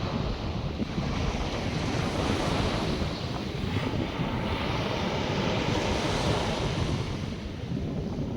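North Sea surf washing onto the beach, its hiss swelling and easing, with wind buffeting the microphone in a steady low rumble.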